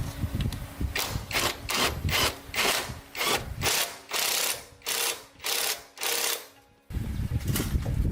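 Rhythmic back-and-forth scraping strokes, about two a second, like a hand tool worked over a surface. They stop abruptly near the end, and a low rumbling noise follows.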